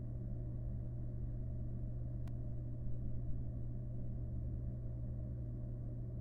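A steady low hum with a rumble beneath it, unchanging throughout, and a single faint tick about two seconds in.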